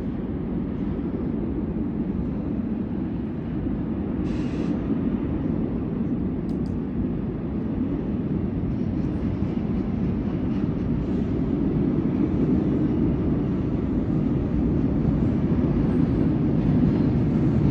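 A train passing: a steady low rumble that grows louder toward the end.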